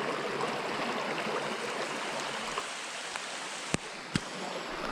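Small mountain stream flowing steadily, with rain falling, a continuous rushing hiss. Two sharp clicks about half a second apart near the end.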